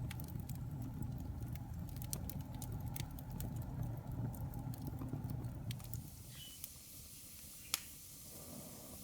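Wood fire in a fireplace crackling, with frequent sharp pops over a low rumble of flames. About six seconds in the rumble drops away, leaving a quieter hiss with a few scattered pops, one of them sharp and loud.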